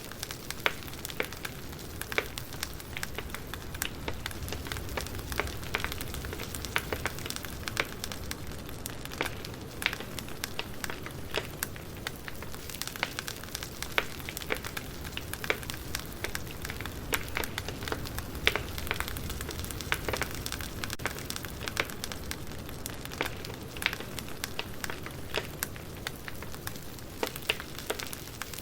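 Firewood burning: irregular crackles and sharp pops, several a second, over a steady low rumble of the fire.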